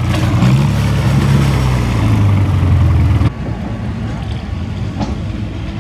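Antique tractor engine running hard, its pitch rising briefly and then slowly falling. A little over three seconds in, the loud engine sound cuts off abruptly, leaving a quieter, rough engine rumble.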